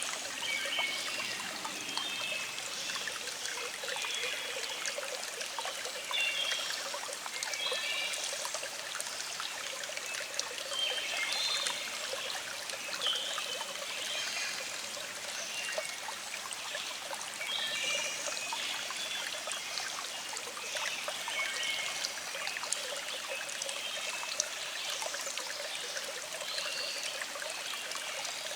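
Small stream flowing with a steady trickle, with birds singing in the background in short repeated phrases.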